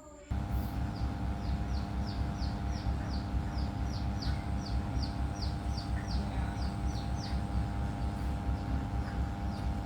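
A machine running steadily with a fast low pulsing and a steady hum, starting and stopping abruptly. Over it comes a repeated short, high, falling chirp, two or three times a second.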